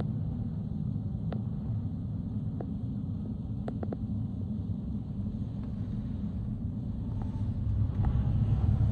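Low, steady rumble of jet aircraft engines, growing louder about eight seconds in, with a few faint clicks.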